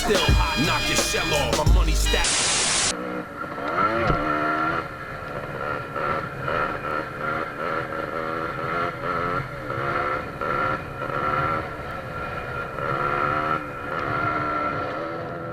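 Hip hop music for the first two seconds, a short burst of hiss, then a 1995 Yamaha DT 125's single-cylinder two-stroke engine revving up and down over and over.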